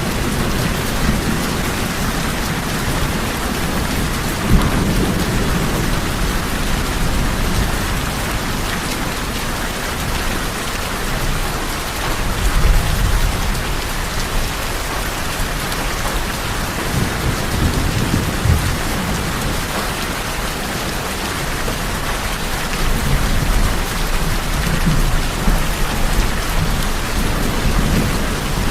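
Steady heavy rain falling on tin roofs, with several low rumbles of thunder rising and fading through it.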